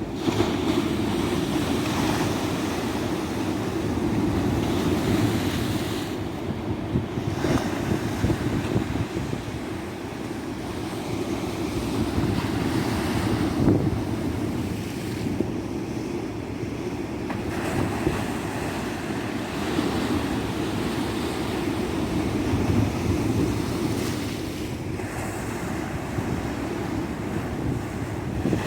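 Tropical beach surf: waves breaking and washing up the sand in a continuous rolling wash that swells and eases every few seconds, with wind buffeting the microphone.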